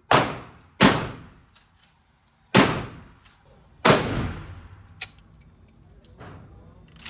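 Four gunshots at an indoor range: two just under a second apart, then one more after about a second and a half and another after about a second and a half more, each dying away in a long echo. A smaller sharp click follows about a second after the last shot.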